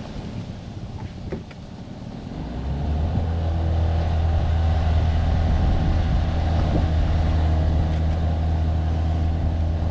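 Outboard motor catching about three seconds in and then running steadily. It is running on fuel hand-primed through the line, which the owners suspect is being starved by an airlock or by sediment from the tank.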